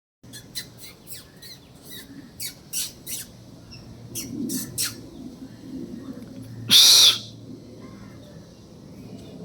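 Birds calling: a run of short, sharp high chirps, two or three a second, then one loud harsh call lasting under half a second about seven seconds in, over a steady low hum.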